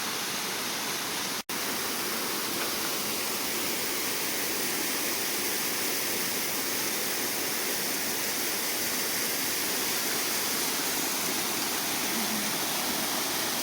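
Waterfall: a steady, even rush of falling water, cut off for an instant about a second and a half in.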